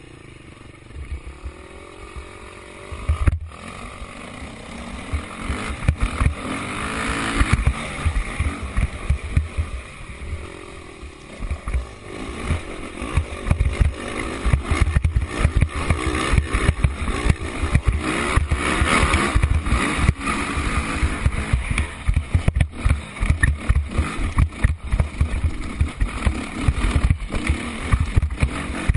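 Motocross dirt bikes' engines revving and rising and falling in pitch as they ride the track, growing louder through the stretch, with heavy wind buffeting on the microphone and a sharp click a few seconds in.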